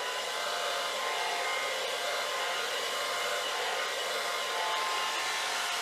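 Handheld blow dryer running steadily, blowing wet acrylic paint across a board. It starts right at the beginning and stops just as it ends.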